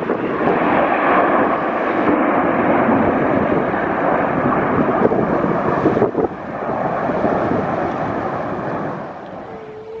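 Thunderbirds' F-16 fighter jets flying past, a loud rushing jet noise that swells in the first second, dips briefly about six seconds in, and fades near the end.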